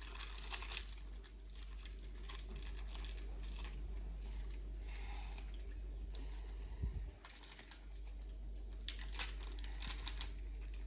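Slime being scraped and worked out of its plastic tub into a bowl with a spatula: scattered small clicks, crackles and sticky squelching, with one dull knock about seven seconds in.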